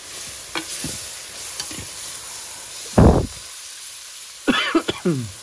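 Onion-tomato masala sizzling in oil in a pan over a wood fire, with small clicks and scrapes of a spoon stirring it. About three seconds in there is a single loud dull thump, and near the end a brief falling vocal sound.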